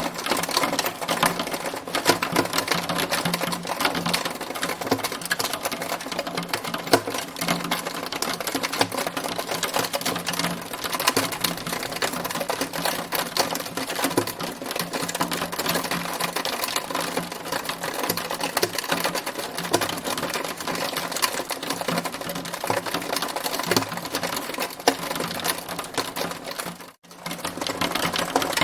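Hailstones hitting a hard surface in a hail storm: a dense, rapid clatter of small hits over a steady hiss, with a brief drop-out near the end.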